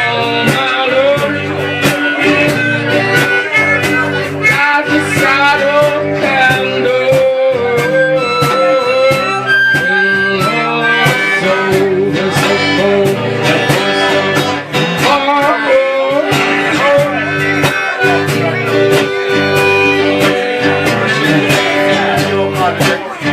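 Instrumental break of a folk ballad: acoustic guitar strummed steadily, with a harmonica playing the melody in held and bending notes.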